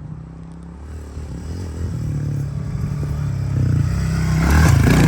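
Honda CRF110 pit bike's small single-cylinder four-stroke engine running, getting steadily louder as the bike comes closer. It is loudest near the end.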